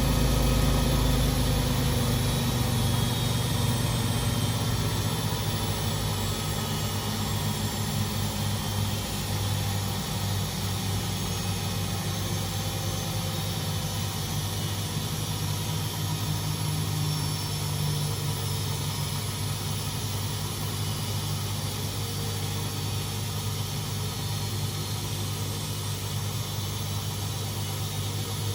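Beko WMD 46160 washing machine spinning down near the end of a spin: a steady low hum with a faint whine slowly falling in pitch, the deepest rumble dropping away about a second in and the whole sound getting a little quieter over the first few seconds.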